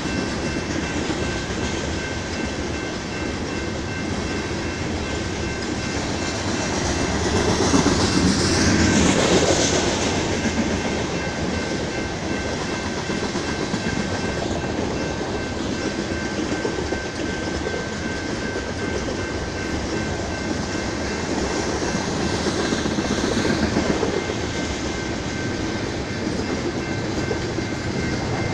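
Freight train of tank cars rolling past: a continuous rumble of steel wheels on rail with rapid clicking over the rail joints and a thin steady high whine. The sound swells louder twice, about a third of the way in and again near the end.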